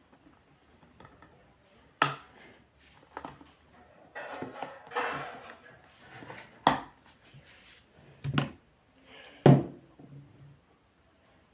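A handful of sharp knocks and clicks of hard objects being handled, with a couple of seconds of rustling just before the middle; the loudest knock comes near the end.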